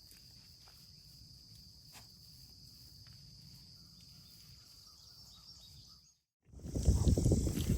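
Faint steady insect chorus, a high even buzz of crickets or katydids, over quiet rural background with a few faint ticks. After an abrupt cut about six seconds in, much louder rough rumbling noise on the microphone takes over.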